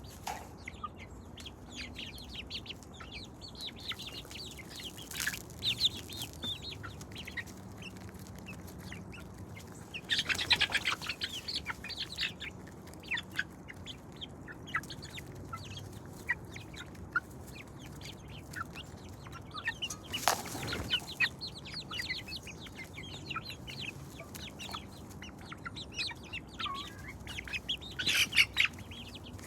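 Domestic chickens clucking, with many short calls throughout. Louder rustling bursts come about a third of the way in and again about two thirds in.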